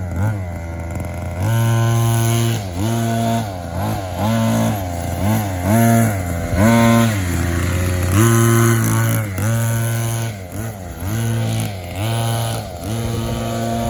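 Small two-stroke petrol engine of an RC monster truck revving up and dropping back again and again, about once a second.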